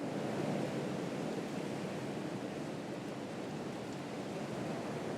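Steady rushing noise, even and unbroken, without distinct pops or calls.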